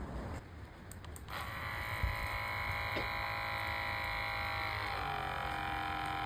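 HiBREW battery-powered portable coffee machine's pump starting up about a second in and running with a steady electric buzz while it extracts the coffee. The pitch drops slightly about five seconds in.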